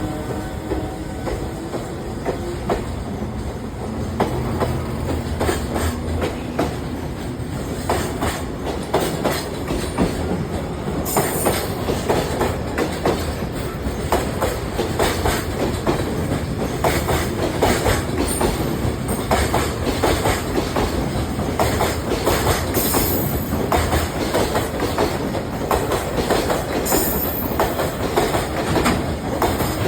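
Freight train wagons rolling past, their wheels clacking steadily over the rail joints, with a few brief high wheel squeals.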